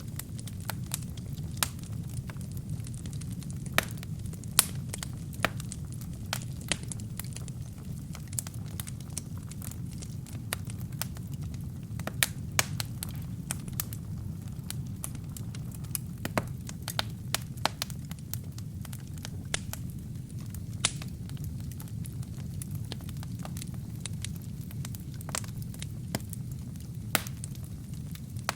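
Wood fire burning in a fireplace: a steady low rumble of flames with irregular crackles and sharp pops of burning wood.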